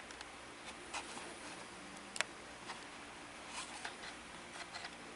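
Quiet room tone with a handful of faint, scattered small clicks and ticks, the sharpest about two seconds in.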